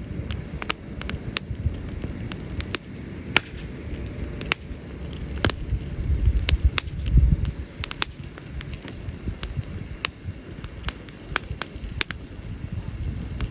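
Wood fire crackling: irregular sharp pops and snaps from burning logs over a low rumble. The rumble swells about six seconds in and eases off about a second and a half later.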